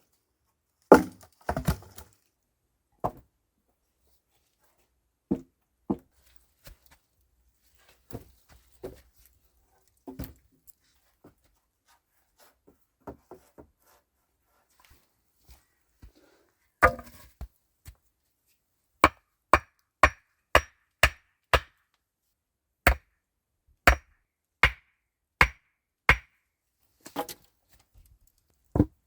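Wood being chopped with a hand tool: sharp blows, scattered at first, then a quick run of strikes about two a second for the last third.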